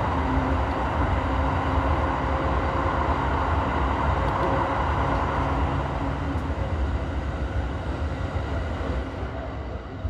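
Electric commuter train running through a tunnel, heard from the driver's cab: a steady rumble of wheels on rail with a faint hum. The noise grows quieter near the end as the train comes out of the tunnel.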